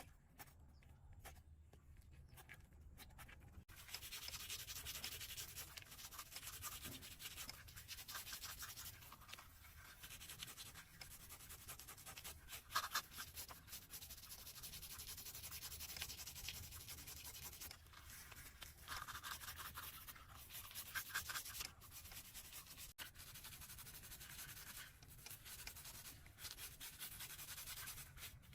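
Scratchy scraping and rubbing on a cow's hoof during hoof trimming. It starts about four seconds in and goes on as rapid short strokes, with a few sharper scrapes along the way.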